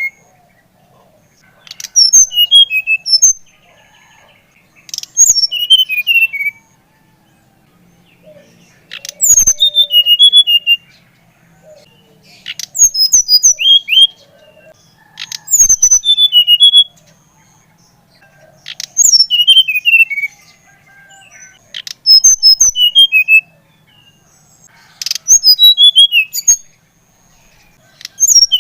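SRDC (sikatan rimba dada coklat, a jungle flycatcher) singing: a short bright phrase about every three seconds, each a quick run of whistled notes that steps down in pitch, with short pauses between phrases.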